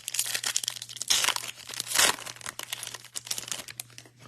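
Foil wrapper of a Bowman baseball card pack being torn open and crinkled, a continuous crackle with louder tears about a second and two seconds in.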